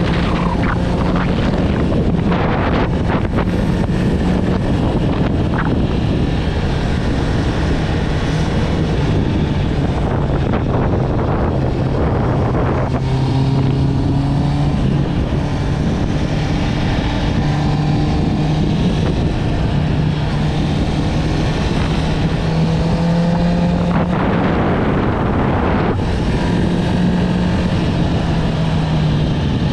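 Honda CB650R inline-four motorcycle with an Akrapovic exhaust running on the road, its engine note rising and falling in pitch as the throttle and gears change, with wind rushing over the microphone.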